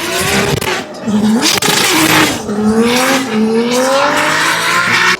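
Drift car at full throttle, the engine note climbing and dipping as the driver works the throttle, over loud tyre noise from the sliding, spinning rear tyres. It cuts off suddenly at the end.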